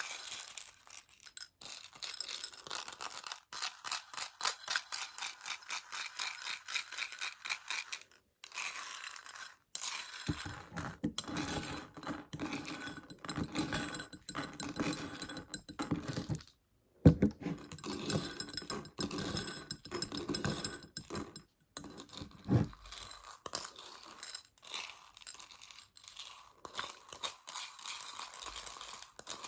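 Meiji Choco Baby chocolate pellets and their plastic container being tapped and shaken: dense, quick clicking and rattling of the tiny chocolates, fuller from about a third of the way in, with one sharp louder click a little past halfway.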